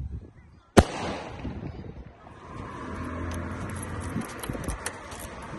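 A single sharp firework bang about a second in, echoing briefly. Then a steady low rumble with scattered faint crackles.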